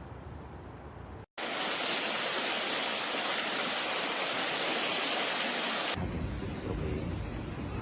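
Rushing water of a downpour and flood: a low rushing rumble, a brief break about a second in, then a loud steady hiss that changes abruptly to a deeper, quieter rush about six seconds in.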